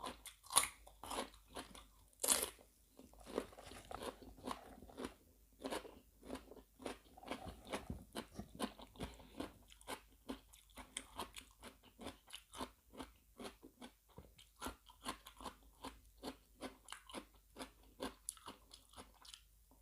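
A person chewing and biting crunchy food close to the microphone, seafood larb eaten with raw vegetables: a steady run of crisp crunches, about two to three a second, with a few louder bites in the first couple of seconds.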